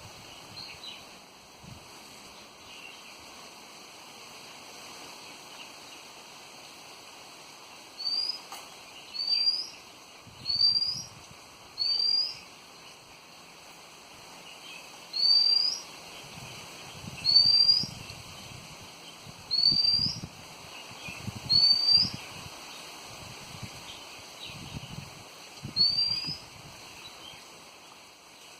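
A bird calls a short, rising whistled note nine times, about one to four seconds apart, starting about eight seconds in. Fainter chirps sound underneath, and gusts of wind rumble on the microphone.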